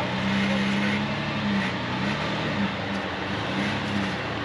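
Off-road vehicle engine running at low revs while crawling over rocks, the note dipping and recovering briefly about two seconds in.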